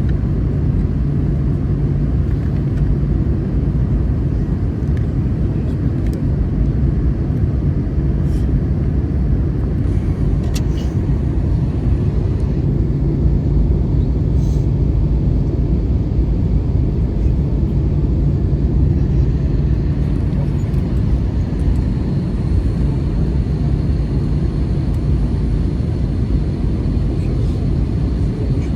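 Steady cabin noise inside an Airbus A320-214: an even, loud low rumble from the engines and airflow with a constant hum underneath, unchanging throughout.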